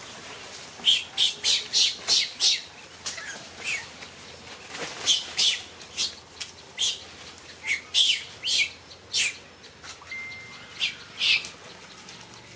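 Monkeys squealing: about twenty short, sharp, high-pitched cries in an irregular series, over a faint steady background hiss.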